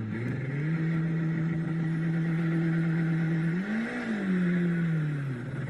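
Car engine running with a steady hum over road noise. Its pitch rises briefly about four seconds in, then falls lower than before.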